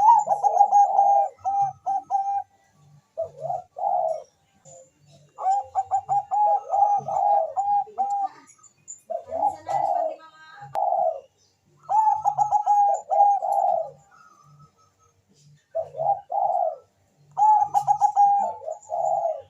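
Zebra dove of the Bangkok song strain (perkutut bangkok) cooing in repeated phrases, about seven in all with short pauses between them. Each phrase is a quick run of rolling notes with a held coo.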